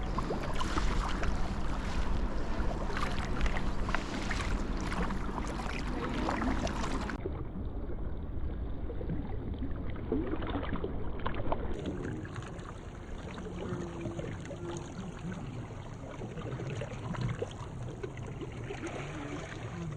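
Water sloshing around a sea kayak, with small splashes and wind rumbling on the microphone. The sound changes abruptly twice as the recording switches.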